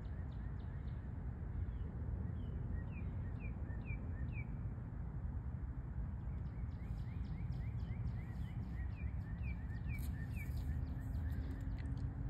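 A bird calling in runs of short, quick, downward-sliding chirps, about two or three a second: one run a few seconds in and another in the second half. Under it is a steady low outdoor rumble.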